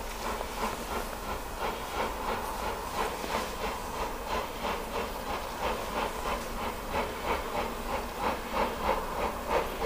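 S&DJR 7F 2-8-0 steam locomotive No. 53808 pulling away, its exhaust chuffing in a regular beat that grows louder and quicker as it accelerates, over a steady hiss of steam.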